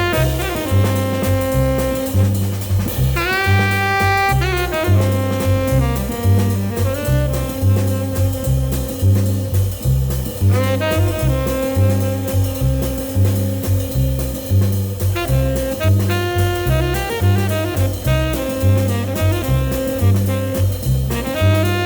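Jazz music: a saxophone plays held, bending notes over a steady bass line and drums.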